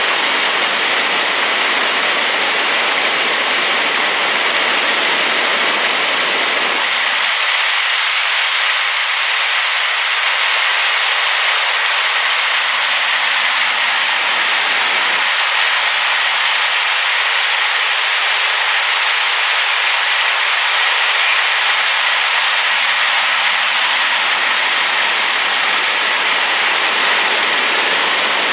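Rain-swollen waterfall running at full force: a loud, steady rush of falling water. The deep rumble under it thins out for several seconds, twice.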